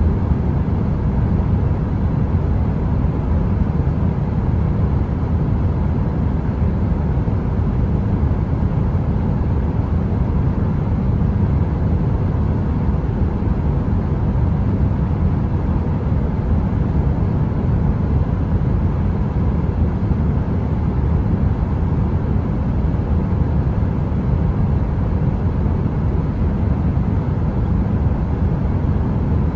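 Heater running with a steady, low rumbling whoosh of air noise and a faint steady hum, with no crackle.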